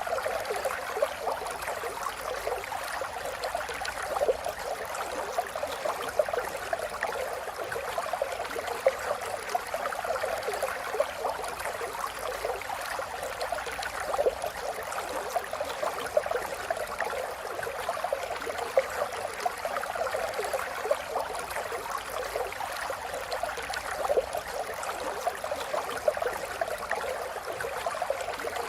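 River water flowing steadily over stones, a continuous babbling and gurgling with many small splashes.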